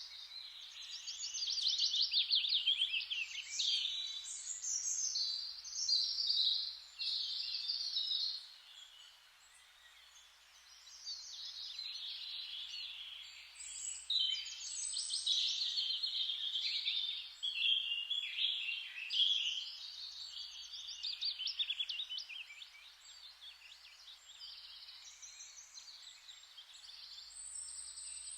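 Several songbirds chirping, whistling and trilling almost without pause over a steady forest-rustling hiss, the birdsong thinning out for a few seconds twice.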